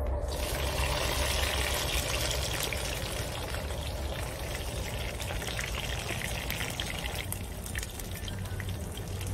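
Sliced onion and tomato sizzling in hot oil in a frying pan over an open fire: a steady hiss dotted with small crackles, a little louder at first as the vegetables go in and then settling, over a low rumble.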